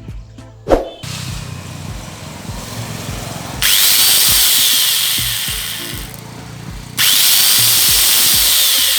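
Angle grinder fitted with a chainsaw head, running in two loud bursts that each start abruptly and tail off, over background music with a steady beat. A brief sharp sound comes just before, about a second in.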